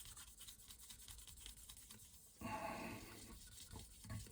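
Faint rubbing and scratching of a fine-grit polishing pad worked over a briar pipe bowl, in quick irregular strokes. About two and a half seconds in there is a brief, louder sound lasting about half a second.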